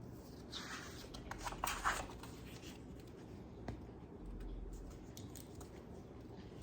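Pages of a picture book being turned: a paper rustle about half a second to two seconds in, then a single light tap near the middle.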